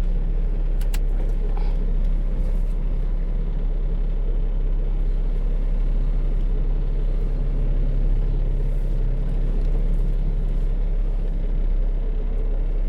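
Semi truck's diesel engine idling steadily, a low even rumble, with a few faint clicks about a second in.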